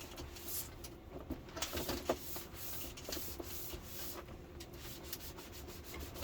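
Hand wiping and rubbing on the plastic backlight parts of an LCD TV, in irregular scrubbing strokes, working at scorch stains burned into the plastic.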